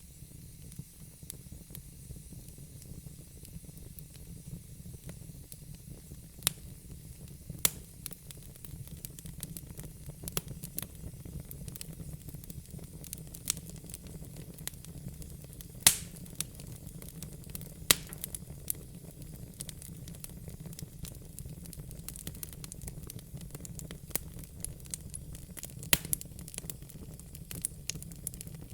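Crackling fire: irregular sharp pops and snaps scattered over a steady low rumble, with one louder pop about halfway through.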